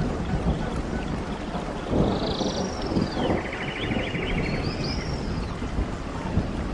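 Running stream water rushing steadily, with a songbird over it singing rapid trilled phrases and short slurred whistles, a couple of phrases every few seconds.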